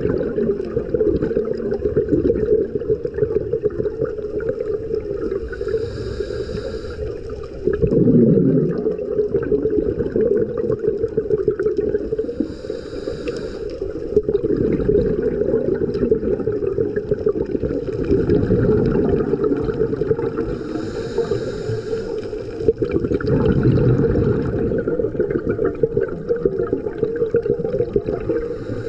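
A scuba diver breathing through a regulator underwater: three hissing inhales about seven seconds apart, each followed a moment later by a rush of exhaled bubbles, over a steady low rush of water.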